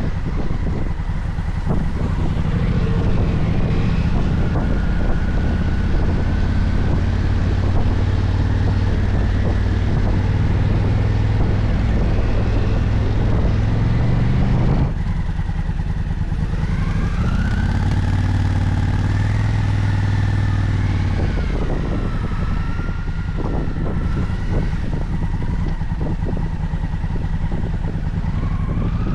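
Motorcycle engine running under way, with wind rush over the microphone. In the second half the engine note climbs and then falls back as the revs change.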